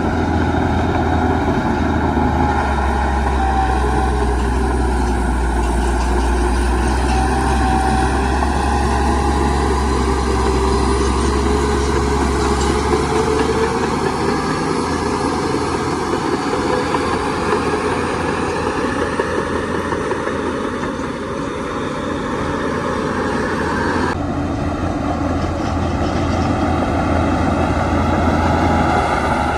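Heavy diesel engines of a bulldozer and dump trucks running, the engine note slowly rising and falling with load. The sound changes abruptly about 24 seconds in.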